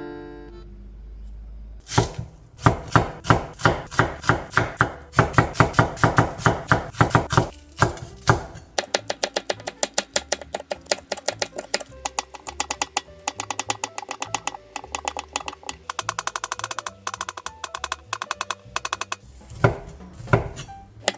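Knife chopping on a cutting board: slower strokes about two a second at first, then a quicker run of about five a second that stops near the end.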